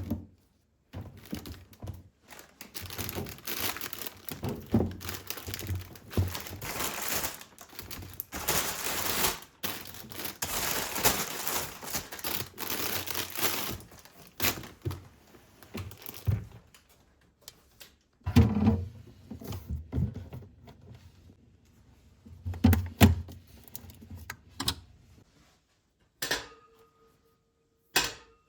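Packaging crinkling and rustling as it is handled, then a few thunks of things being put down, and a short ringing tone near the end.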